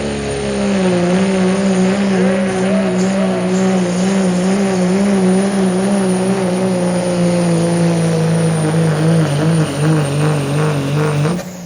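Diesel pickup truck engine running at full throttle under load, pulling a sled, with a steady pitch. The pitch wavers over the last couple of seconds, then the engine is cut off throttle and the sound drops away suddenly near the end.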